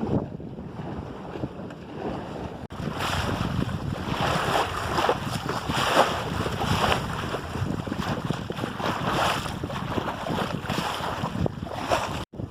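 Water rushing and splashing along the hull of a 25 ft Maxi 777 sailboat under way, with wind buffeting the microphone. The splashing comes in surges about once a second, louder after a brief break a few seconds in, and the sound cuts out for an instant near the end.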